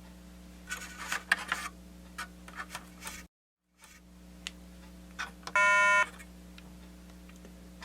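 A few light clicks and taps, then a single buzzy electronic beep about half a second long from the Milton Bradley Simon game's speaker, about two-thirds of the way in: the game is running and playing its tone.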